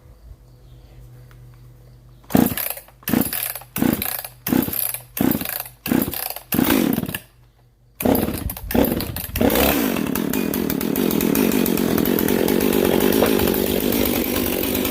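Two-stroke chainsaw being started: a quick run of about eight short bursts as the starter cord is pulled, a short pause, then the engine catches about eight seconds in, surges twice and settles into steady running.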